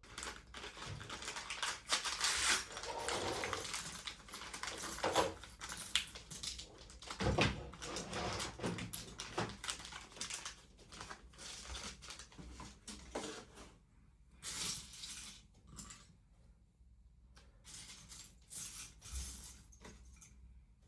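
Rustling and crackling from things being handled, with many small clicks and a few sharper knocks. The noise is busiest in the first half and thins out after about fourteen seconds.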